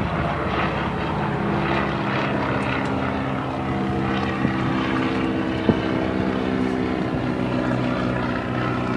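An aircraft engine turning a propeller, running steadily, with two short sharp clicks near the middle.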